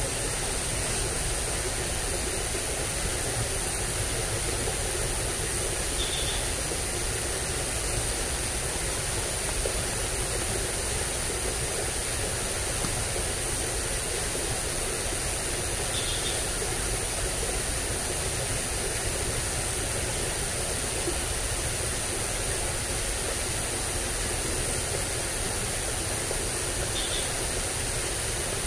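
Steady rushing of flowing water in a ditch swollen by recent flooding, with a constant high-pitched whine over it and three faint short chirps about ten seconds apart.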